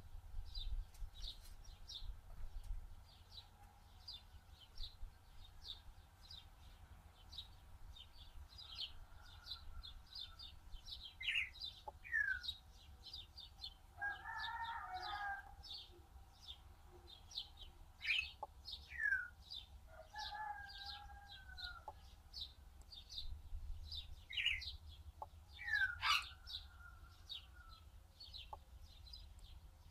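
Birds calling: a steady run of short, high chirps about two to three a second, with quick downward-sliding calls and a couple of longer, fowl-like clucks.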